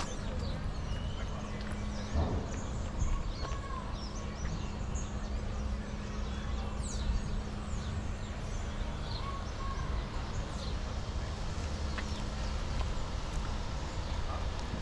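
Birds chirping in short, scattered calls over a steady low rumble of outdoor background noise, with a steady hum that stops near the end.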